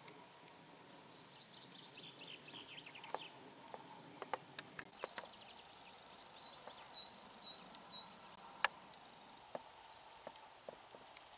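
Faint outdoor bird calls: quick runs of high chirps, one run dropping in pitch, with a few sharp clicks scattered through, the loudest near the end.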